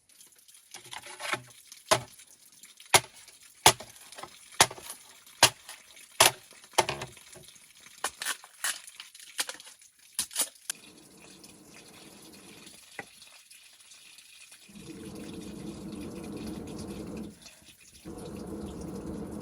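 A run of sharp clicks or knocks, about one a second, for the first ten seconds or so; then a kitchen tap running water into a sink in two spells with a short break between them.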